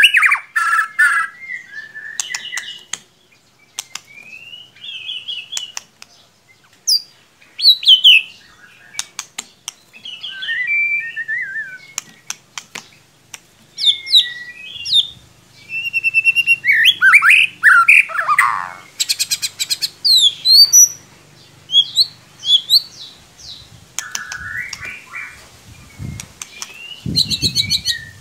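White-rumped shama singing a varied song of whistled phrases that glide up and down, mixed with sharp clicks and rapid high runs, with short pauses between phrases.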